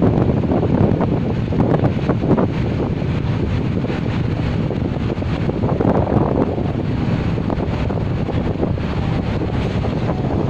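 Steady wind buffeting the microphone aboard a ferry at sea, with a rushing of water underneath.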